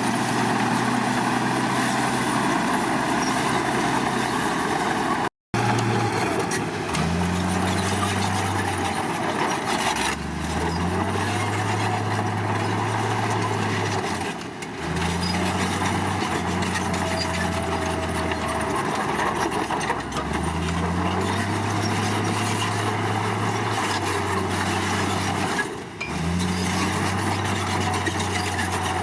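Komatsu D53 bulldozer's diesel engine running under varying load, its low note stepping up and dipping every few seconds as the machine works.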